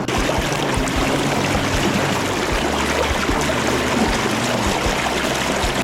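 A river in high water rushing steadily past, a dense, even wash of moving water.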